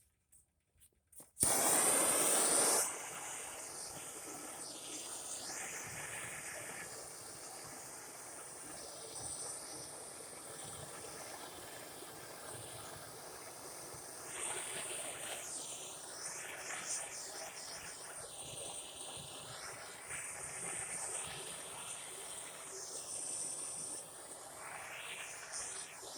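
MAP-gas hand torch coming on suddenly about a second and a half in, loud at first, then settling into a steady flame hiss that wavers in tone, used to thaw ice off a backhoe's control panel.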